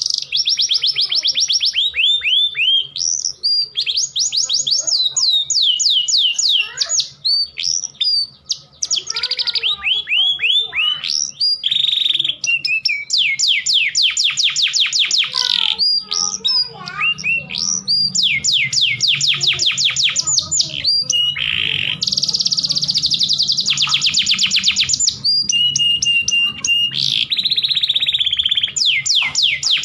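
Domestic canary singing continuously in its full breeding song: long runs of fast trills and rolling phrases, with brief pauses and a few held notes between them.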